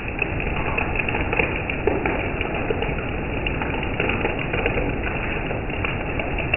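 Rain falling hard: a dense, steady patter of many small drops striking a surface.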